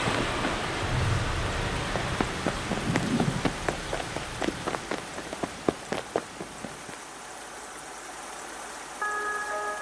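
Rain falling, a steady patter with distinct drips that thin out and fade about two-thirds of the way through. Near the end, a few bell-like chime notes come in.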